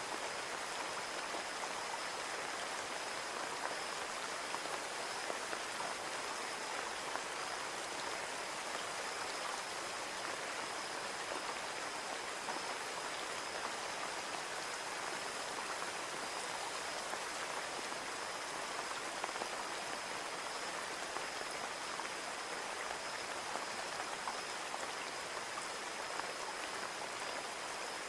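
Steady rain pattering on a window pane, an even, unbroken spray of drops with no pauses or gusts.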